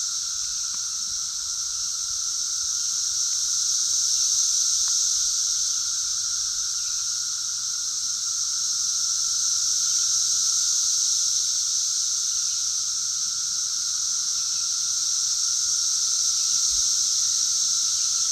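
Dense chorus of Brood XIX periodical cicadas calling together, a continuous high-pitched drone that swells and eases slowly every few seconds.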